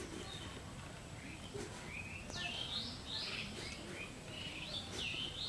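Birds chirping in a series of short, sweeping calls that begin about one and a half seconds in, over a steady background hiss.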